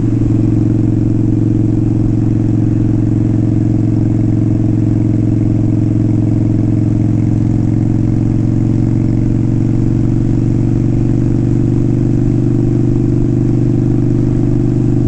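Motorcycle engine running at a steady cruise, its pitch holding nearly constant, heard from the bike being ridden.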